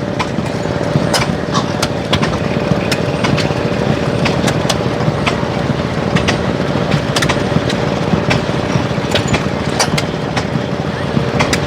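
Small engine running steadily, with a steady whine and sharp clicks and knocks scattered irregularly over it.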